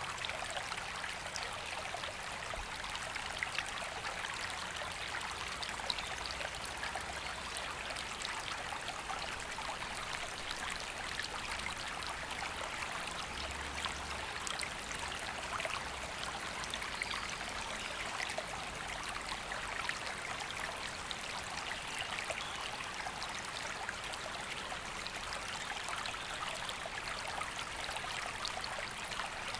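River water flowing steadily, a continuous rushing with small irregular splashes and trickles.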